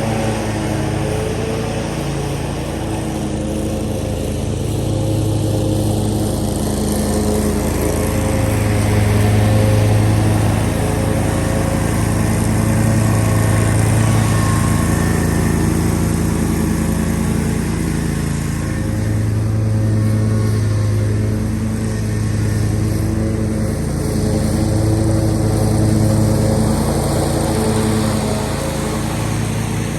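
Riding zero-turn mower's engine running steadily under load, its level swelling and easing gently as it mows.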